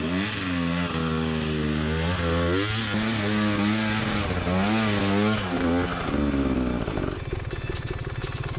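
Dirt bike engine revving up and down repeatedly under load, over a steadier low engine hum. About seven seconds in, the revs drop to a lower, choppy beat.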